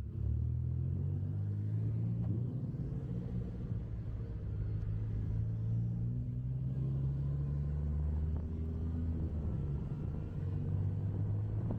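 Car engine running at low revs, its pitch drifting gently up and down.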